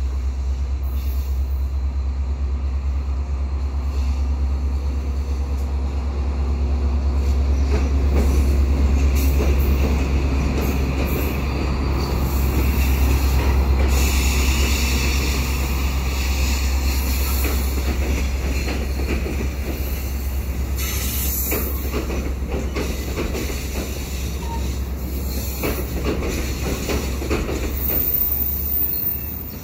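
EMD F59PHi diesel locomotive passing with a steady low engine rumble, loudest about a third of the way in. Behind it, Bombardier multilevel passenger coaches roll over a short steel girder bridge, their wheels clicking rapidly over the rail joints.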